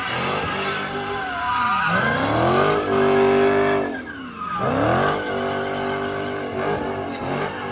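Car engine revving hard, its pitch dropping and climbing again twice and held high for about a second in between, with tyres squealing as the car is driven hard.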